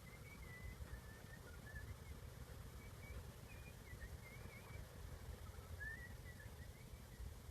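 Faint bird chirping: short, wavering high notes scattered throughout, with a quick run of them about six seconds in, over a low steady rumble of wind or handling noise.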